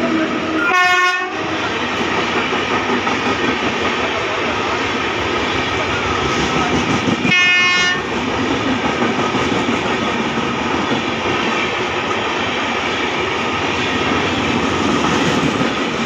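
Coaches of an express train hauled by a WAP7 electric locomotive rushing past at speed, with a steady roar and clatter of wheels on the rails. A train horn sounds two short blasts, about a second in and again about seven seconds in.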